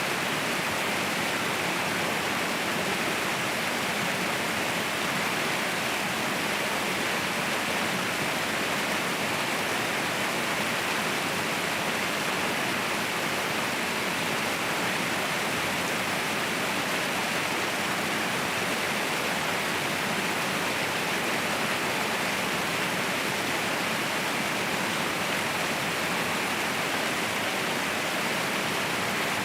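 Waterfall: falling water making a steady, even rush with no breaks, its sound more hissy than deep.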